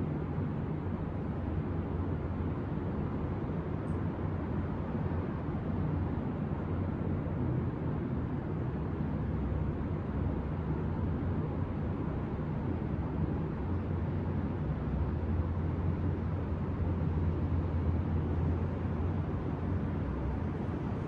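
Steady low rumble of city traffic, a continuous hum of vehicles with no single sound standing out, swelling slightly past the middle.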